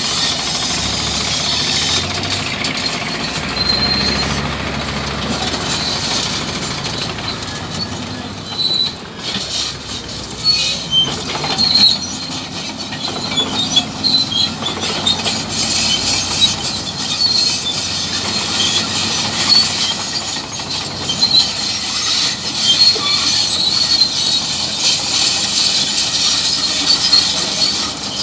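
Bulldozer working, its engine running under squealing and clanking metal, the kind of sound steel tracks make as they move.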